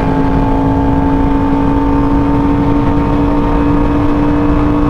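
2018 Yamaha R1M's crossplane inline-four engine running at a steady cruising speed, its pitch holding even, with wind rushing over the microphone.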